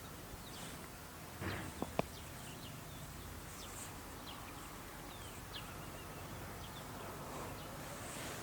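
Faint outdoor background with birds chirping in short high calls, and a soft rustle and two small clicks about one and a half to two seconds in.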